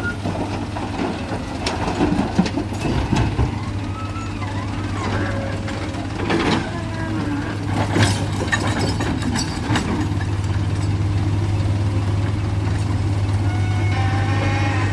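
Heavy engine running steadily with a low hum, with scattered sharp knocks and clanks, the loudest about eight seconds in.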